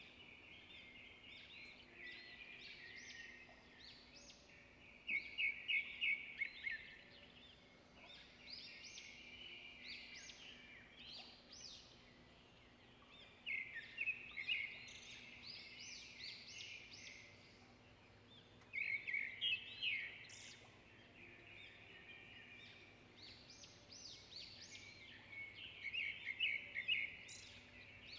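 Birds chirping: clusters of quick, high chirps come in bursts every five to seven seconds over a faint steady hum.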